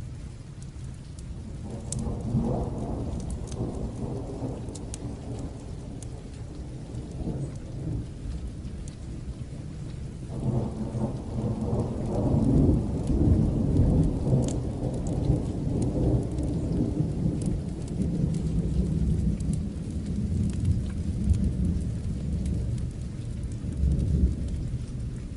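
Distant thunder rolling over steady rain: a first low rumble about two seconds in, then a longer, louder roll from about ten seconds in that slowly dies away, with scattered sharp ticks over the rain's hiss.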